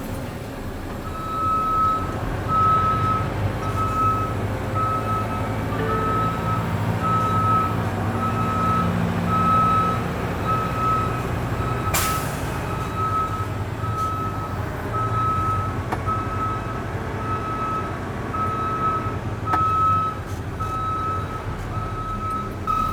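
Semi truck's diesel engine running as it backs up, its backup alarm beeping steadily about once a second from about a second in. A single sharp snap about halfway through.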